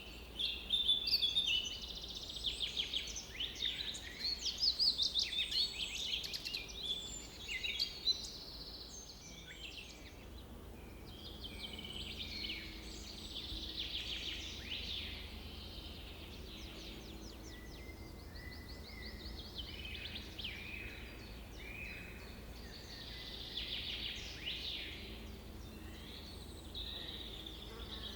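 Several birds singing and calling at once: overlapping chirps and rapid trills, busiest in the first eight seconds and sparser after, over a faint steady low hum.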